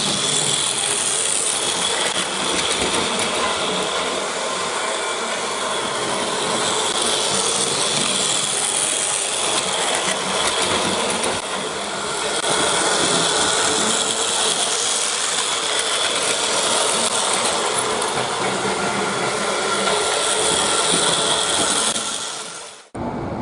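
Battery-powered Plarail toy train running on plastic track: a steady whirr from its small motor and gearbox, with a high whine. It cuts off suddenly near the end.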